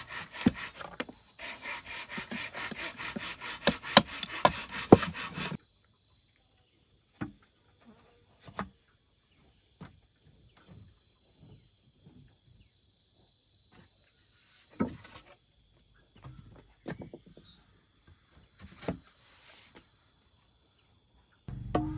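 Wood being hand-sawn in quick back-and-forth strokes, stopping after about five and a half seconds. Then steady insect buzzing, with a few scattered light knocks.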